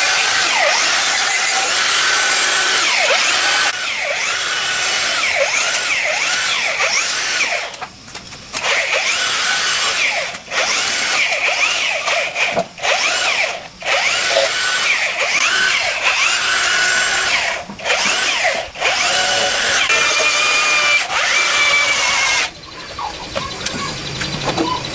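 A handheld power tool running under load in long runs, cut off briefly several times and stopping near the end.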